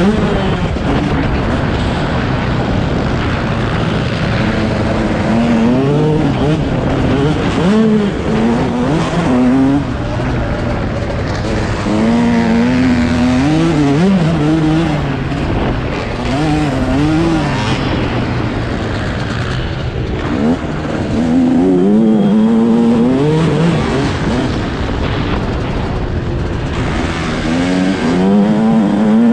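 Yamaha YZ125 two-stroke motocross engine under riding load, its pitch climbing and dropping over and over as the throttle is worked and the gears change.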